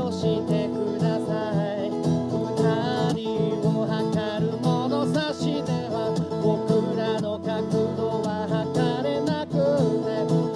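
Acoustic guitar playing a song with a singing voice, part of a live fireside performance.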